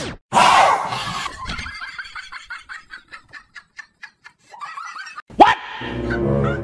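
Aggressive dog barking, played back as the sound of the prank's invisible dog. There is a loud outburst about half a second in, then a run of quick barks that trail off, then another loud burst near the end.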